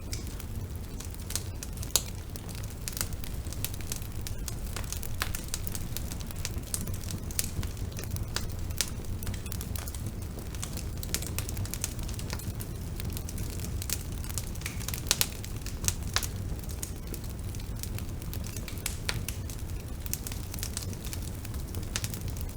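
Bonfire burning: a steady low rumble of flames with irregular crackles and sharp pops of burning wood, a few louder pops about two seconds in and again near the middle.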